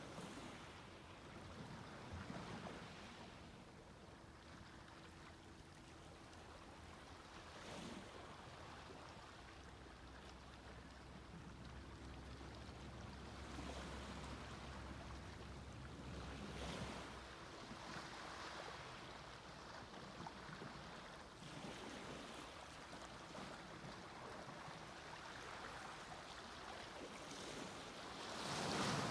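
Gentle sea waves breaking and washing up the beach, a wash every few seconds with the loudest one near the end.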